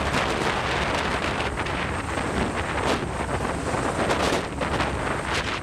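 Steady rushing wind and sea noise.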